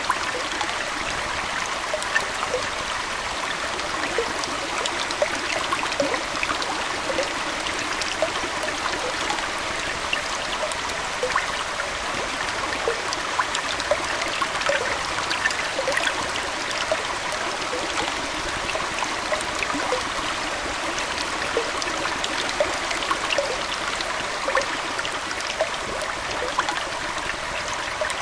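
Aquarium water trickling and splashing steadily, like a small stream, with many small droplet plinks scattered through it.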